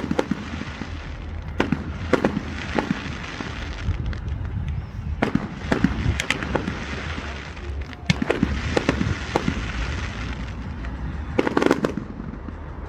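Fireworks display: about a dozen sharp bangs of bursting shells at irregular intervals, some in quick pairs, with a crackling hiss trailing after several of them.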